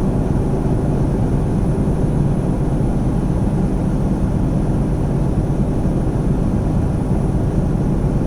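Semi truck's diesel engine and tyre noise heard from inside the cab while driving: a steady low drone that does not change.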